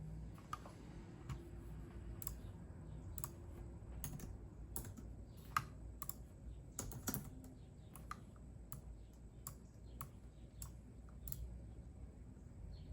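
Computer keyboard typing: unhurried keystrokes at an irregular pace, with one louder strike near the middle.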